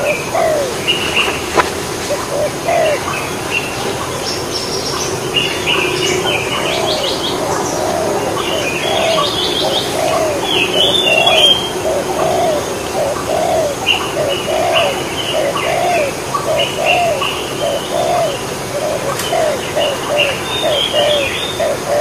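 Birds calling: a long series of short, low notes repeated about twice a second, a little faster near the end, with higher chirps over them.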